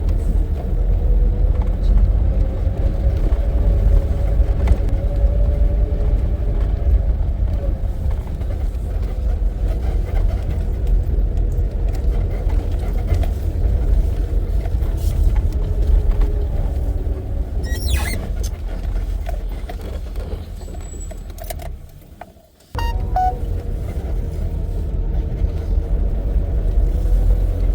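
Safari vehicle driving on a forest track: a steady, loud engine and road rumble with a faint engine hum that drifts slowly in pitch. About 22 seconds in, the sound fades and drops out for under a second, then comes back at full level.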